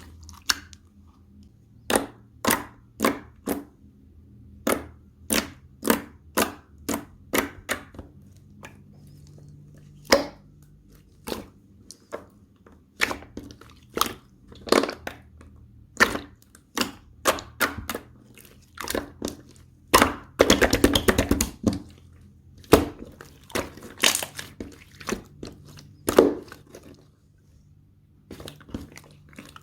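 Slime being squeezed, stretched and poked by hand, giving sharp clicking pops and crackles about one or two a second, with a fast run of crackling about two-thirds of the way through.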